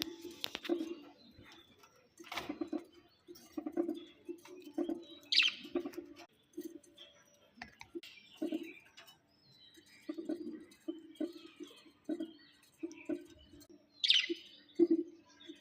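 Pet budgerigars chirping, with two sharp high calls about five seconds in and near the end. Under them, a low cooing note repeats in short pulses.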